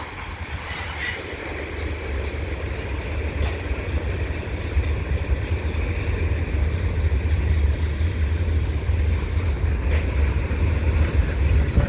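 CN mixed freight train rolling past at speed, its steady rumble growing louder, with wind buffeting the microphone.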